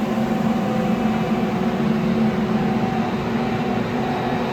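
Steady machinery drone with a constant low hum, unchanging in level.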